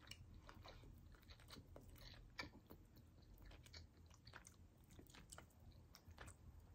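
Faint, close-miked chewing of a chicken wing: irregular soft wet mouth clicks and smacks, with no words.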